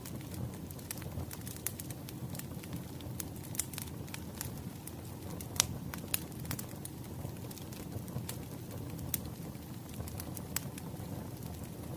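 Crackling wood fire: a steady low rumble of burning logs with irregular sharp pops and snaps, the loudest about five and a half seconds in.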